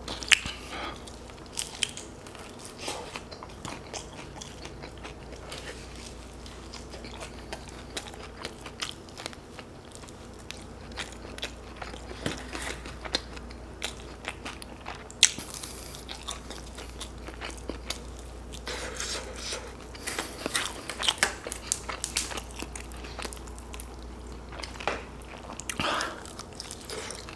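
Close-miked biting and chewing of sauced buffalo chicken wings eaten by hand, with irregular sharp crunches and mouth clicks, busier in the second half.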